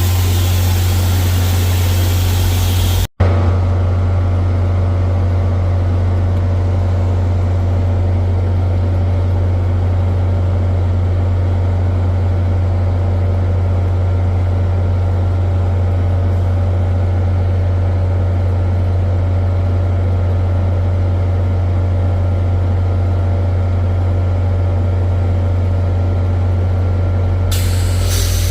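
Diesel locomotive engine running steadily with a strong low hum. A hiss of air runs over it for the first three seconds and cuts off abruptly.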